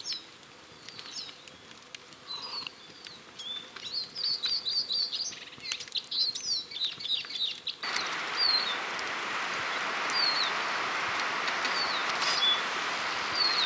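Small forest songbirds singing: repeated short chirps and a quick run of trilled notes in the first half. About eight seconds in, a steady rushing noise starts abruptly and carries on under the bird calls.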